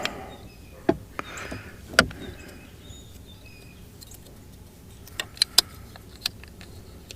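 A few separate sharp clicks and knocks of the parts of an outboard boat remote control being handled and fitted together: one about a second in, another a second later, then a quick cluster about two thirds of the way through.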